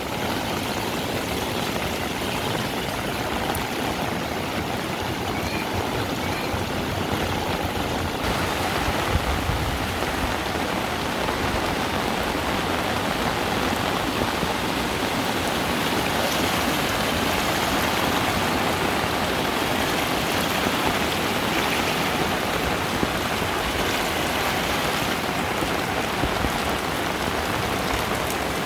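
Heavy rain falling steadily, a dense, even hiss of drops on the ground and surfaces.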